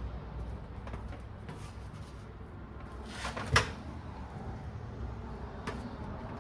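A single sharp knock about three and a half seconds in, just after a brief scrape, with a few faint clicks over a low background hum.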